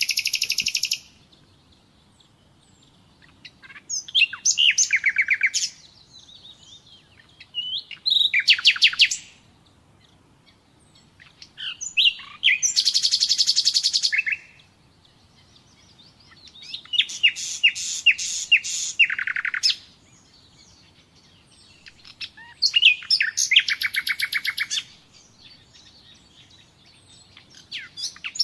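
Common nightingale singing in separate phrases about every four seconds. Each phrase lasts one to three seconds and is built of rapid repeated notes and whistles, with short pauses between phrases.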